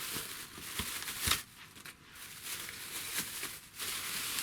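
Plastic rustling and crinkling in stops and starts as it is handled, with a couple of light knocks about a second in.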